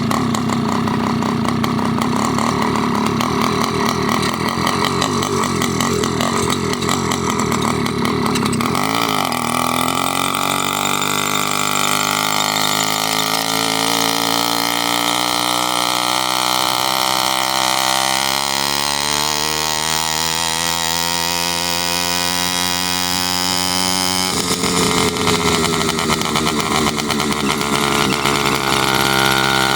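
Motorized bicycle's small engine running under way. About nine seconds in its pitch starts to climb steadily as it speeds up, then near the end it drops back suddenly. A high squeaky noise of unknown cause sounds over the engine.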